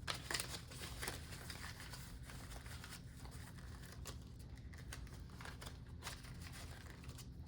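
Paper bills and a cash envelope being handled: faint crinkles, rustles and small clicks as cash is slipped into a budget binder envelope, over a steady low room hum.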